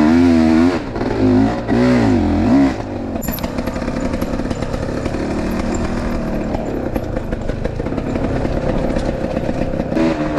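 Enduro motorcycle engine revving up and down in quick blips for the first few seconds, then running at lower revs with a fast, even putter.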